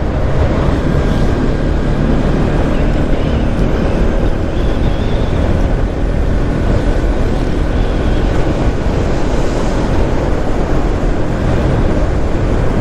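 Motorcycle running steadily at road speed, its engine hum under heavy wind rush on the rider's microphone.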